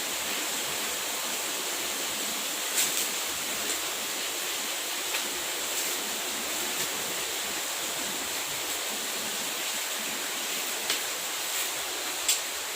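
Steady hiss with a few scattered sharp clicks, about eight of them, from handling the wrapped parcel.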